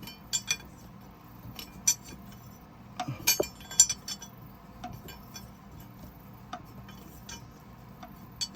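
Hand tools and steel parts clinking and clicking against each other in scattered single strikes, with a quick cluster of clinks about three seconds in, as a puller is worked on a Caterpillar 3406E to draw out an injector cup.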